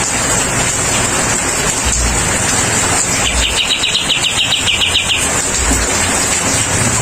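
Kapas tembak bulbul giving a fast, pulsing trill about two seconds long, midway, over a steady hiss.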